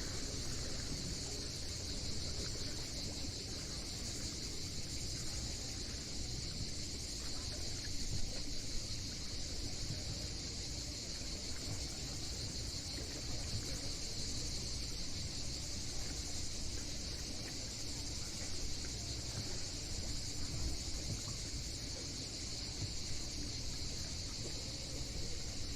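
Steady high-pitched insect chorus, unbroken throughout, over a low, even rumble of waves and wind.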